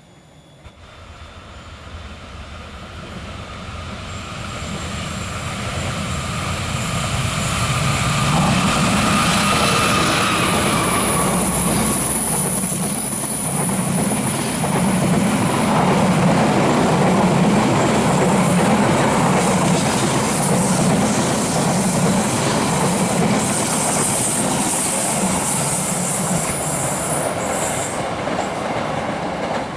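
Long train approaching and passing close by, growing louder over the first several seconds. The carriages then rumble and clatter over the rails, with a high wheel squeal on the curve twice.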